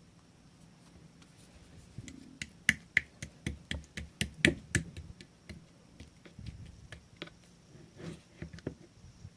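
Slime being pressed and squeezed by hand, giving a run of sharp clicking pops from trapped air. The pops start about two seconds in, come quickest and loudest for the next few seconds, then thin out.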